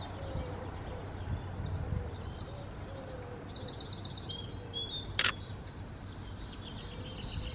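Small songbirds singing and chirping throughout, with quick trills of repeated notes, over a low steady background rumble. A single camera shutter click sounds about five seconds in.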